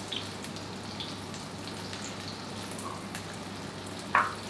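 Chicken ballotine frying in hot butter with garlic, shallot and baby carrots in a frying pan: a steady, quiet sizzle with scattered small pops and crackles. A short scrape of the basting spoon in the pan comes near the end.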